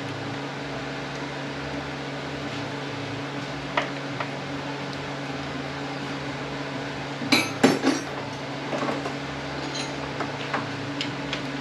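Hand tools and small metal parts clinking against an automatic transmission's case as a 7/8 wrench works the neutral switch nut, with a short cluster of louder metal clanks about seven seconds in. A steady low hum runs underneath.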